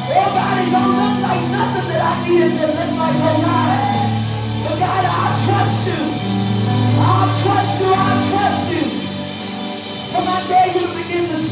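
Gospel worship band playing slow, held chords over a steady bass, with voices singing over them.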